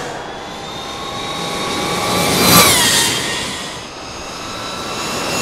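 Electric racing motorcycle passing at speed: a high electric-motor whine over a rush of air and tyre noise, loudest about two and a half seconds in, where the whine drops sharply in pitch as the bike goes by. Another bike is heard approaching near the end.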